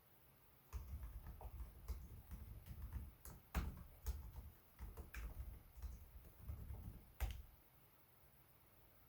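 Typing on a Lenovo Legion 5 Pro laptop keyboard: an irregular run of key clicks with soft thuds. It starts just under a second in and stops about seven seconds in.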